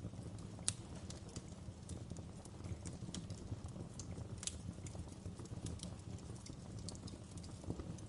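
Wood fire burning in a fireplace: sharp, irregular crackles and pops of burning logs over a steady low rumble of the flames, with a louder pop about a second in and another near the middle.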